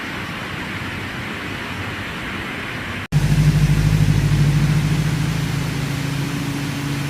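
A steady rushing noise, then an abrupt cut about three seconds in to the low, steady hum of a vehicle engine running.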